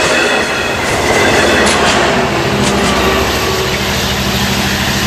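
Long Island Rail Road passenger train rolling past at a grade crossing, its wheels clattering over the rail joints with some wheel squeal. About halfway through, a steady low hum joins in.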